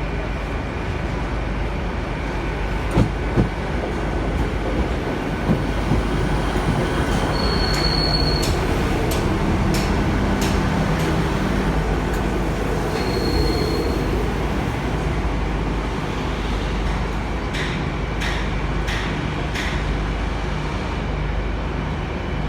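Class 158 diesel multiple unit pulling into the platform and slowing to a stop, with a steady rumble of wheels and engines. Brief high-pitched squeals from the wheels or brakes come twice, about 8 and 13 seconds in, with a few sharp clicks along the way.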